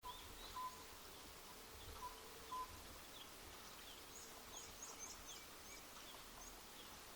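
Faint birdsong: many short, falling chirps, busiest around the middle, with two pairs of short steady whistled notes in the first few seconds.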